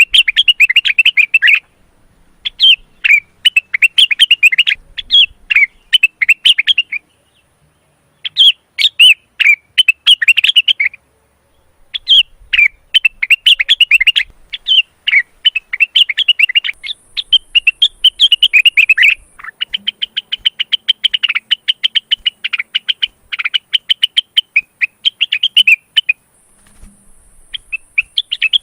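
Male cucak wilis (blue-winged leafbird) in breeding condition singing loud, rapid chattering song phrases of a few seconds each with short pauses between, including one long unbroken run of fast notes about two-thirds of the way through.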